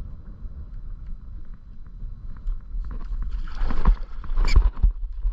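Wind buffeting the microphone with a low rumble, then water splashing from about three seconds in, with one sharp splash about four and a half seconds in.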